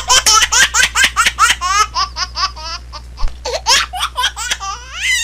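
A baby laughing, a long run of quick high-pitched laughs several a second.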